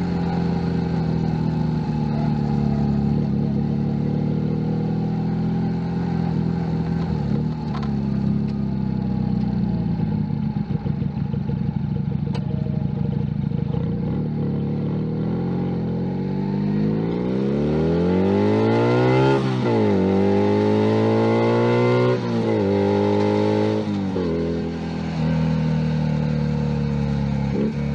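Junak M11 Cafe's 125cc single-cylinder engine running steadily at low revs, then, from a little past halfway, pulling hard through the gears: the pitch climbs and drops back at each upshift, four times in quick succession.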